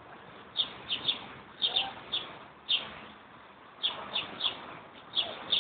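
Small birds chirping: short, sharp chirps, often in quick pairs, repeating every half second to a second.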